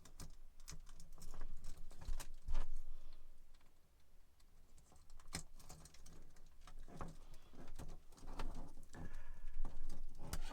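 Scattered clicks and taps of a plastic truck key fob casing being handled and pressed back together, a few louder snaps among them.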